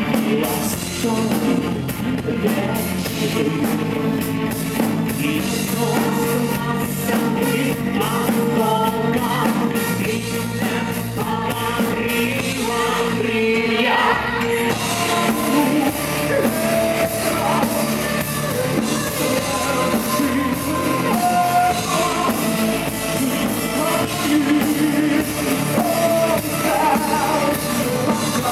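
Live rock band playing with a singer, drums and guitars, heard through the room of a club.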